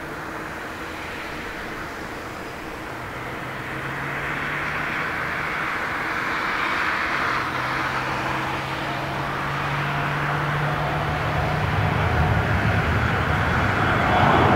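Jet airliner's engines on approach to land, a steady roar that grows steadily louder as the plane comes nearer, with a low steady hum beneath.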